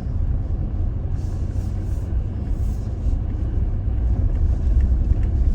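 Toyota Tacoma pickup driving along a dirt trail: a steady low rumble of engine and tyres.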